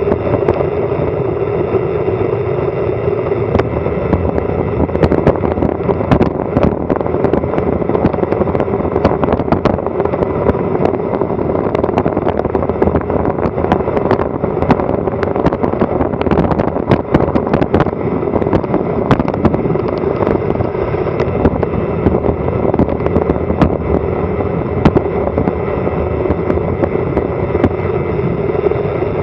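Wind rushing over a Garmin Virb Elite action camera's microphone during a fast bicycle descent, with road rumble and many sharp rattles and knocks throughout.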